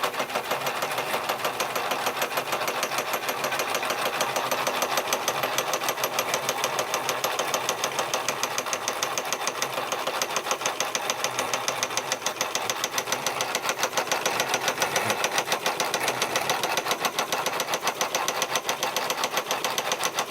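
J. Falk model 143/2 toy steam engine running, with a rapid, even beat over a steady hiss.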